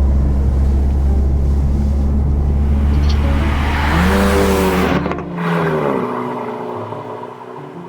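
Renault Mégane R.S. Trophy 300's turbocharged four-cylinder driving past: a heavy low rumble, then the engine note rises as it approaches and tyre and exhaust hiss swell to a peak about five seconds in. After that the pitch drops and the sound fades as the car moves away.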